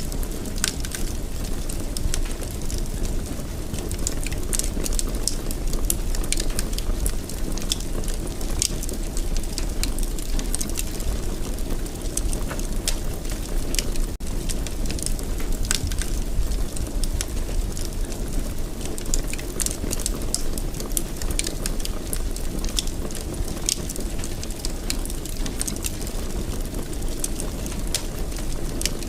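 Fire in a fireplace crackling, with frequent small, irregular pops and snaps over a steady low rumble.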